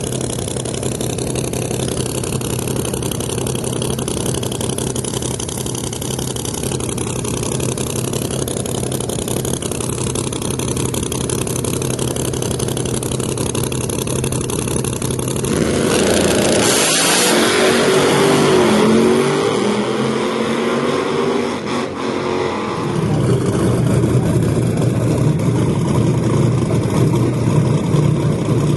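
Drag race car engines idling steadily, then about halfway through a sudden louder burst of revving with the pitch swinging up and down. Near the end an engine climbs steadily in pitch.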